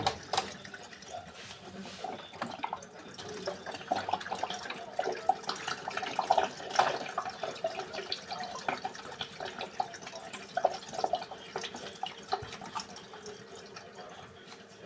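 Water pouring and splashing into a Beko washing machine, poured in by hand from a bottle to raise the water level above what the hand wash cycle fills to. The splashing is uneven and thins out near the end.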